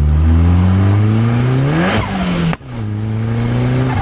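Nissan CA18DET turbocharged four-cylinder in a Locost kit car accelerating hard through a gear, its pitch climbing. A little over halfway it lets off with a brief hiss for a gear change, the revs drop suddenly, and it starts pulling again from lower revs.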